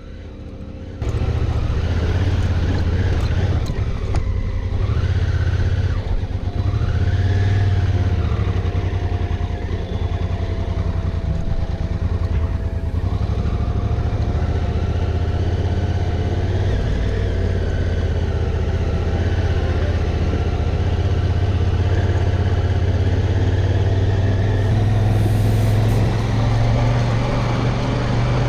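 Honda Africa Twin adventure motorcycle engine running steadily under way on a dirt track, heard from on the bike, coming in about a second in.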